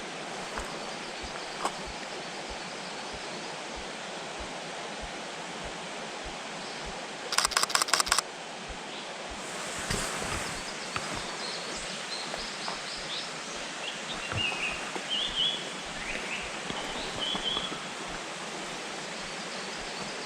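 Steady outdoor background hiss, broken about a third of the way in by a rapid run of about seven sharp clicks in under a second: a camera shutter firing in burst mode. In the second half a small bird gives short, high chirps and brief trills.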